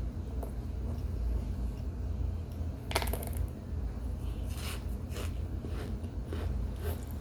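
Scattered crackles and crunches of a baked cornstarch and baby powder chunk being bitten and chewed, a soft chunk with a squeaky bite, over a steady low hum.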